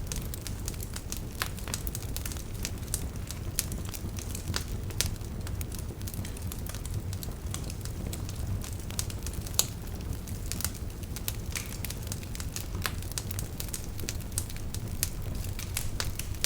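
Wood fire burning in a fireplace: a steady low rumble of the flames with irregular crackles and sharp pops, a few louder pops standing out.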